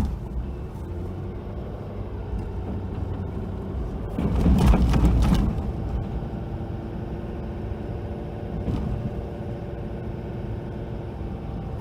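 Engine of a snow-plowing vehicle running steadily, with a louder burst of noise about four seconds in that lasts a second and a half.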